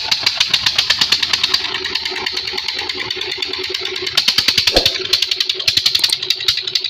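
Borewell pump engine running with a fast, even train of firing beats, just started.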